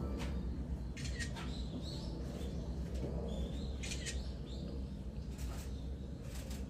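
Small birds chirping in short high calls several times over a steady low rush of flowing water.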